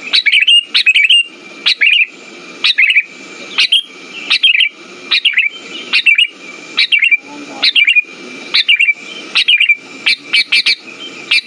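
Sooty-headed bulbul calling: short, chirpy phrases repeated about once a second, with a steady thin high tone underneath.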